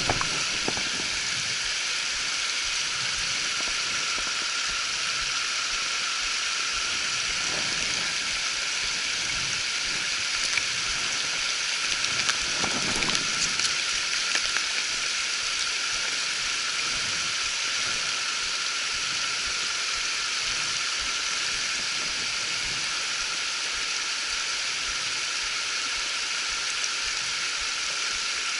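Steady rushing of a creek's running water, an even hiss at a constant level, with a few brief louder spots around the middle.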